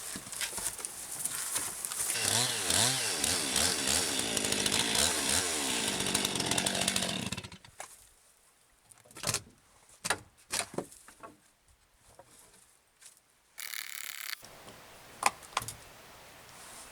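Chainsaw running and cutting, its pitch rising and falling with the load. It stops abruptly about seven seconds in and is followed by a few scattered knocks.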